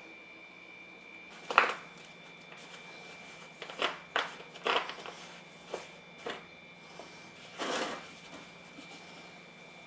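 Irregular knocks and clinks of small parts being handled, about eight in all, one a little longer near the end. A faint steady high-pitched whine runs underneath.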